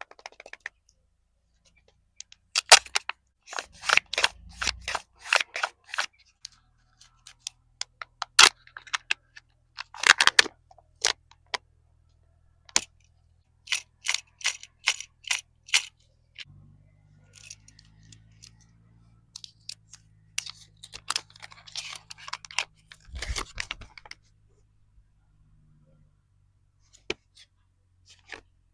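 Kinder Joy eggs and their plastic toy capsules being handled and opened: crinkling wrappers and sharp plastic clicks and snaps in irregular bursts, with short pauses between.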